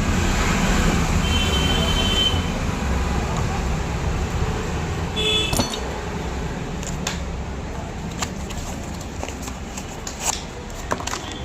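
Steady rumble of road traffic with two short horn toots and a few sharp clicks.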